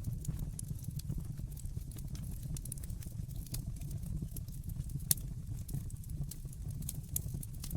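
Wood fire burning in a fireplace: a steady low rumble of the flames with irregular sharp crackles and snaps, one louder pop about five seconds in.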